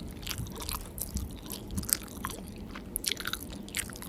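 Close-up mouth sounds of a person biting and chewing crisp McDonald's fried food, a run of irregular crunchy crackles.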